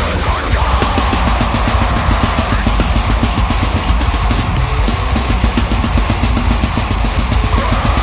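Deathcore song with a live drum kit played fast and dense, rapid kick-drum strokes and cymbals packed tightly over distorted guitars.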